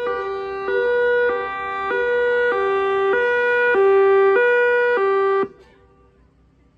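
Warning siren sounding a loud multi-tone chord that switches abruptly back and forth between a higher and a lower pitch about every 0.6 seconds, then cuts off suddenly about five and a half seconds in.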